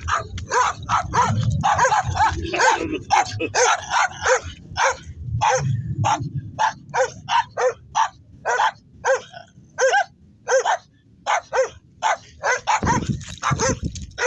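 Dogs barking over and over in short, high barks, about two to three a second, with no letup.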